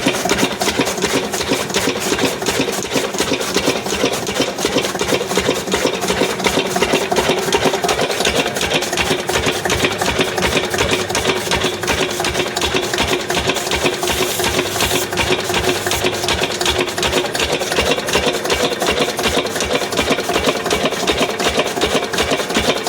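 Lister 8 HP single-cylinder diesel engine running steadily with a fast, even beat, driving a chaff cutter by belt. A brief hiss comes in about two-thirds of the way through.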